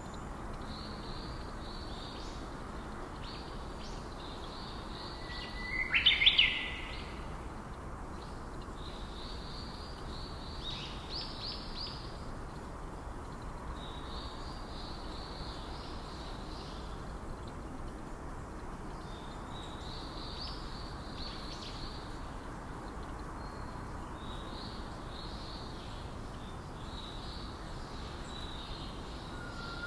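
Birds calling: bouts of high, rapid chirping recur throughout, and one loud call sweeps sharply upward in pitch about six seconds in.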